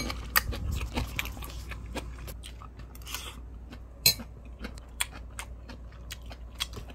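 A person chewing a mouthful of fried rice, with many soft mouth clicks and one sharper click about four seconds in.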